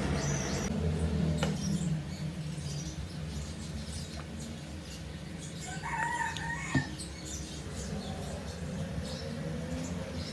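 A bird calls once, a short pitched call about six seconds in, with faint scattered chirps and a steady low hum throughout.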